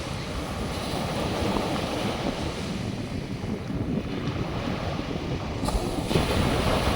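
North Sea surf washing ashore, with wind rumbling on the microphone; the wash grows louder about five and a half seconds in.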